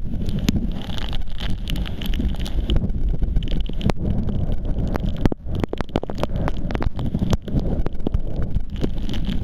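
Gusty wind buffeting the camera microphone with a steady low rumble, overlaid by many irregular sharp clicks and crackles that are densest in the middle of the stretch.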